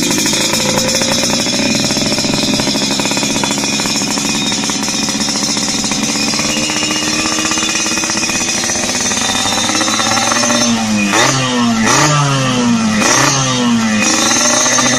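Yamaha RX-King's two-stroke single-cylinder engine running through an aftermarket exhaust, its revs easing slowly down for about ten seconds. Near the end the throttle is blipped four times in quick succession before it settles again.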